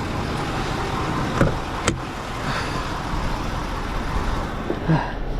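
Steady vehicle and roadside traffic noise, with two short sharp knocks about one and a half and two seconds in.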